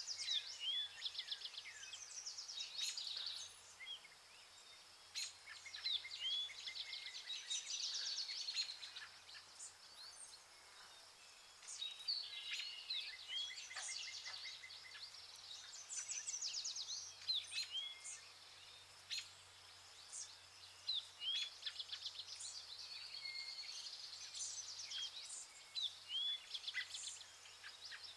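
A chorus of many forest birds calling together: rapid trills, chirps and short rising whistles overlapping one another, thinning out briefly twice.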